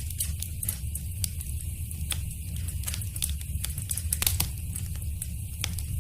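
Wood fire crackling, with irregular sharp pops and snaps over a low, steady rumble of the flames.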